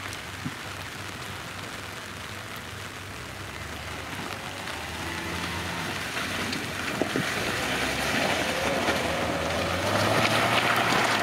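An off-road Suzuki Jimny's engine running under a steady hiss, growing louder through the second half.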